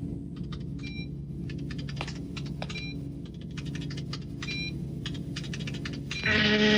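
Cartoon sound effects: rapid ticking clicks and short electronic beeps about every two seconds, over a steady low hum. Near the end a louder held electronic tone starts.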